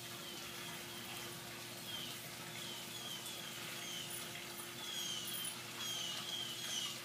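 A bird's short, high chirps, each falling slightly in pitch, repeated about twice a second and coming more often in the second half.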